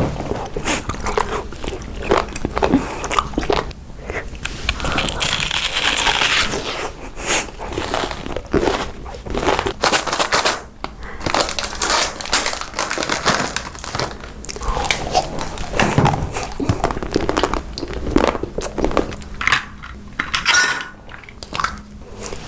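Close-miked crunching and chewing as crunchy snacks are bitten and eaten, a dense run of irregular crackles and crunches.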